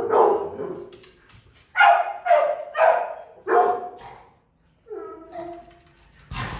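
Dogs barking in short loud barks, about five of them, then a drawn-out whine about five seconds in. A sharp knock comes at the very end.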